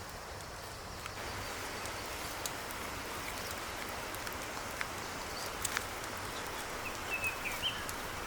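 Wood cooking fire under a cauldron: a steady hiss with scattered sharp crackles, and a few short bird chirps near the end.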